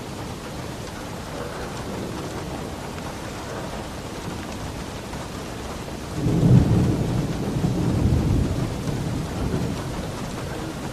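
Steady heavy rain on a roof, with a low rolling rumble of thunder that starts about six seconds in and dies away over about four seconds.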